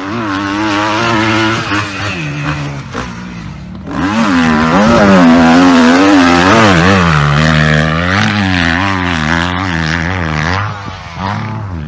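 Motocross bike engine revving up and down again and again, rising and falling in pitch as the rider works the throttle and gears. It gets louder about four seconds in and eases off near the end.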